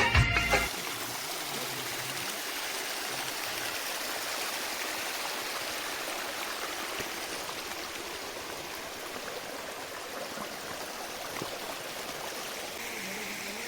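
Steady, even rush of falling water from a waterfall. A backing music track cuts off under a second in.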